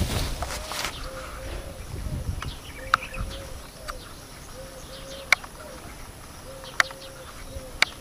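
A dove cooing over and over in short, low phrases, with footsteps crunching through dry, dead brush in the first second and a few sharp clicks later on.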